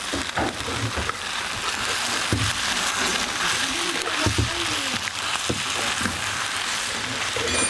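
Curry ingredients sizzling and bubbling in a hot pan, with a few knocks of a utensil against it and faint voices behind.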